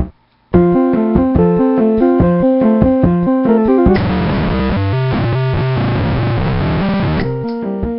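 Electronic keyboard played through the Degrader Shifter octave-divider noise pedal, which squares the signal and splits it into octaves: a quick run of repeating notes starts after a brief gap, turns into a dense, buzzy fuzz with low octave notes about halfway through, and clears to separate notes again near the end.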